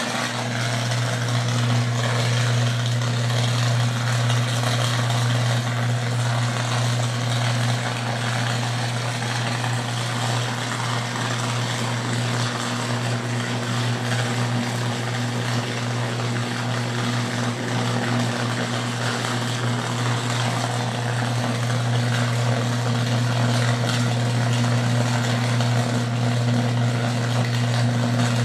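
Electrical transformer lying in the road with a loud, steady low buzzing hum, under a constant hiss.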